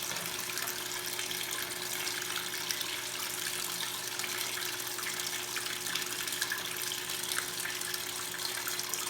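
Consul Super Cargo 8 kg top-loading washing machine filling its tub with water for the first rinse, being topped up with extra water: a steady rush of water.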